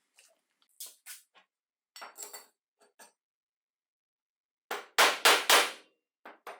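Metal parts being handled and tapped: scattered light clicks and knocks, then three loud hammer-like blows in quick succession about five seconds in.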